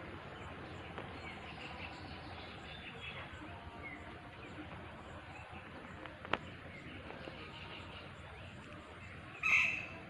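Faint outdoor ambience with birds chirping in the background, a single sharp click about six seconds in, and a brief louder sound near the end.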